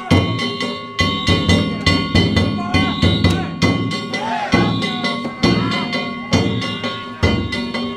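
Danjiri festival music: taiko drums and small hand gongs (kane) struck in a fast, driving repeated beat, with a wavering high melody line sliding over it.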